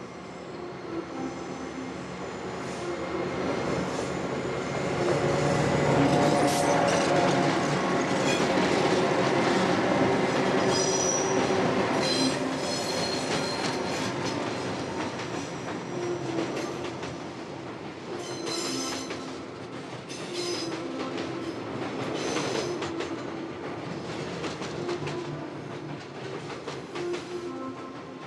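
A train running on rails: wheels clacking over the joints with high wheel squeals, swelling loudest about a quarter of the way in and then easing off. Steady sustained tones sound under it.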